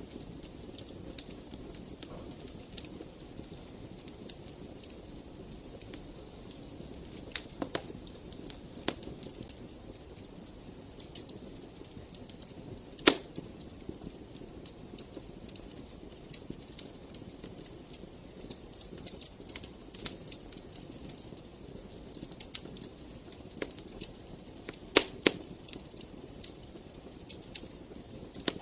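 Wood fire crackling in a fireplace: irregular sharp pops and snaps over a low steady hiss, with one loud pop about halfway and a couple more strong ones near the end.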